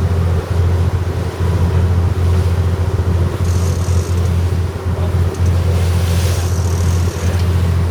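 A boat's engine running at a steady low drone while under way, with wind noise on the microphone and sea noise. Two brief hisses come about halfway through and again near the end.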